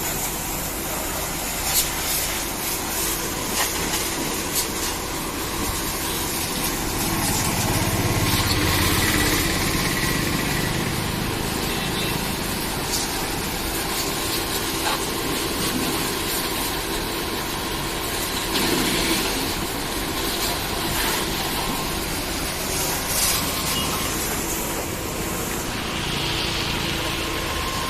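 A motor running steadily under a continuous hiss, with scattered short clicks.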